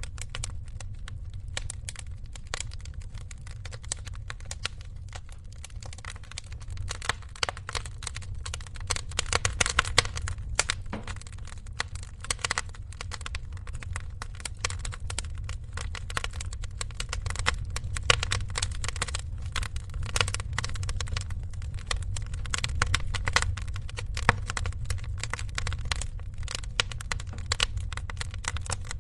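Wood fire crackling in a fireplace: dense, irregular pops and snaps over a low rumble, with a few louder snaps now and then.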